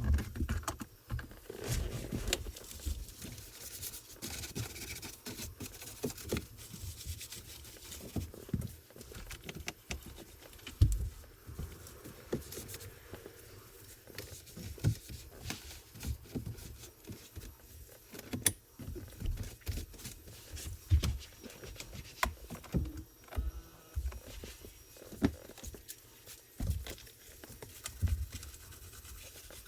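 Hands-on car detailing work: irregular rubbing and scraping with scattered light knocks and clicks from tools and materials handled on the vehicle.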